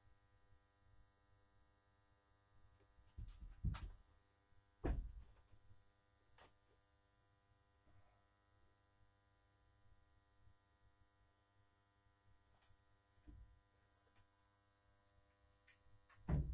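Faint steady hum broken by a few scattered knocks and thumps, clustered in the first few seconds with the loudest one near the end.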